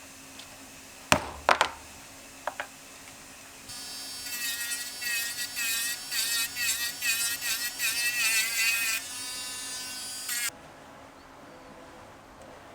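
A few sharp clicks, then a small handheld electric motor tool runs for about seven seconds. Its buzzing pitch dips and recovers again and again as it is pressed into work, then holds steady before cutting off suddenly.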